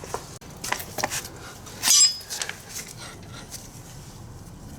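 Metal tools and parts clinking and tapping together in a series of light clicks, with one sharp, briefly ringing metallic clink about two seconds in.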